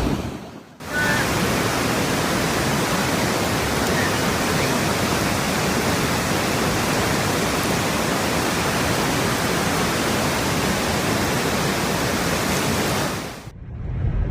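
Steady, loud rushing noise without any pitch, starting abruptly about a second in and cutting off shortly before the end.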